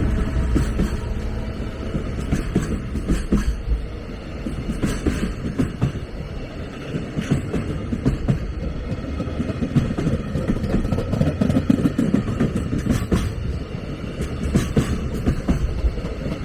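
A train passing close by: a steady rumble of wheels on rail, with sharp clacks at uneven spacing as the wheels cross rail joints.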